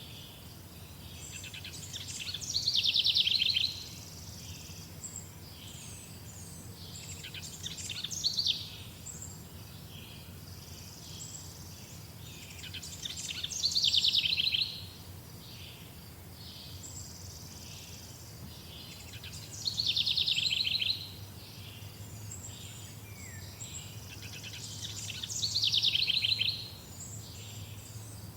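A songbird singing the same rapid, high-pitched song phrase five times, about every six seconds; each phrase swells and then stops abruptly. Fainter chirps fill the gaps, over a steady low background hum.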